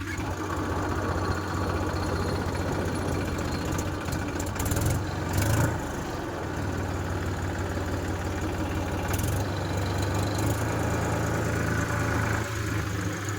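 Tractor diesel engine running steadily at idle, with a few brief louder noisy moments around the middle.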